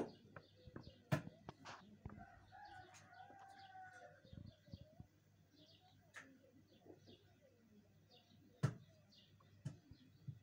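Faint chirping of small birds, with a drawn-out call from about two to four seconds in. Several sharp clicks and knocks stand out, the loudest near the start and at about nine seconds.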